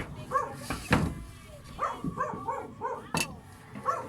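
A dog barking in a quick run of short barks, about two or three a second. Two sharp knocks stand out, about a second in and a little after three seconds.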